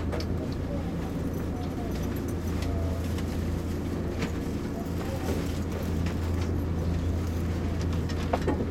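Electric limited-express train running on track, heard from inside: a steady low hum with scattered clicks of the wheels over the rails, faint wavering squeals, and a short rising squeal near the end.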